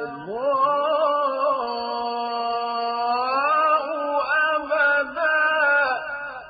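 A male reciter chanting the Qur'an in melodic tajwid style. He sweeps up into one long held note, then sings a more ornamented phrase, the word 'wal-baghda'u', which breaks off near the end and leaves a fading echo.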